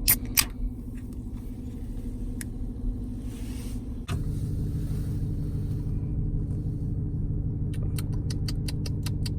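Steady low rumble of a vehicle running, heard from inside the cabin, with a couple of sharp clicks near the start. About four seconds in the drone turns suddenly louder and stays steady, and near the end there is a quick run of about ten light ticks.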